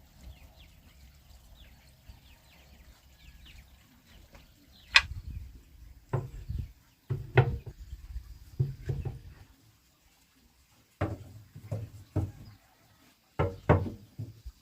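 Wooden knocks and thumps: a sharp knock about five seconds in, then irregular dull thumps in clusters, as of wooden pieces being handled and set down. Faint bird chirps in the first few seconds.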